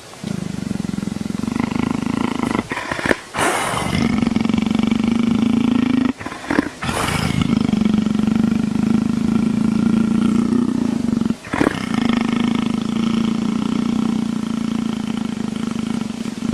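Leopard purring: a deep, continuous rumble in long stretches of four to five seconds, broken three times by short pauses with a breathy sound.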